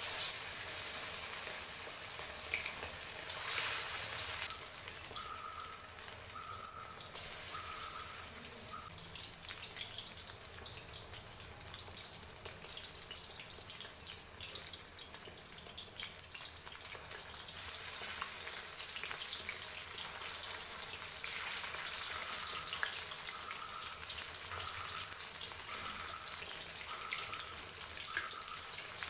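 Food frying in hot oil in a pan: a steady crackling sizzle, loudest in the first few seconds, then settling to an even crackle.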